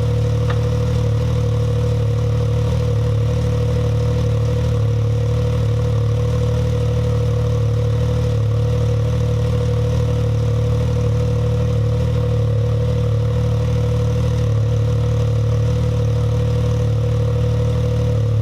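Can-Am Maverick X3 XMR's turbocharged three-cylinder Rotax engine idling steadily while warming up, running through a new Evolution Powersports full exhaust with the catalytic converter deleted.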